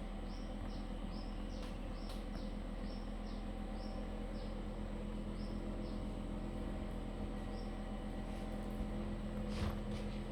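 Swiftlets chirping: short, high, falling calls repeated about twice a second, thinning out after about five seconds. A steady low hum runs underneath, and a few faint clicks come near the end.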